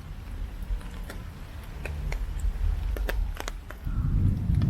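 Typhoon rain: scattered drops tap close by over a low rumble, and the rumble grows louder near the end.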